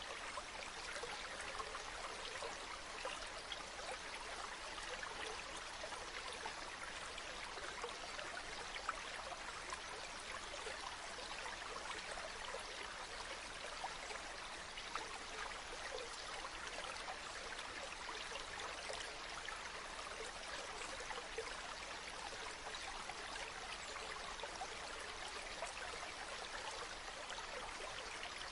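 A shallow stream babbling and trickling steadily, an unbroken rush of water.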